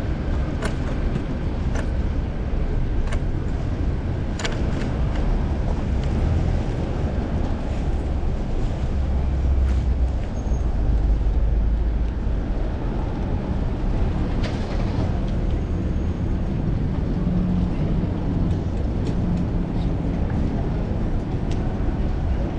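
Low wind rumble on the microphone of a cyclist's chest-mounted action camera while riding, with road traffic around and scattered sharp clicks and knocks.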